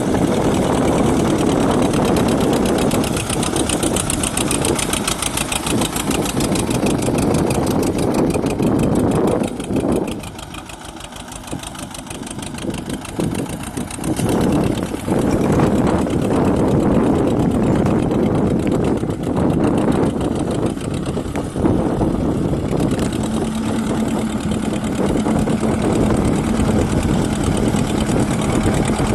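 Escort 335 tractor's diesel engine running, quieter for a few seconds around the middle, with a steady tone joining in over the last several seconds.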